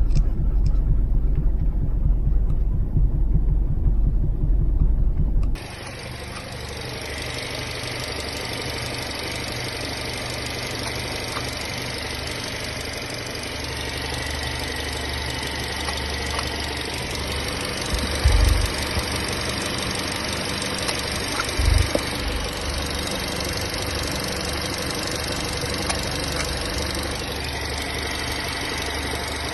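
A loud low rumble for about the first five seconds, which cuts off abruptly. Then a Chery car engine idling steadily, with two short low thumps in the second half.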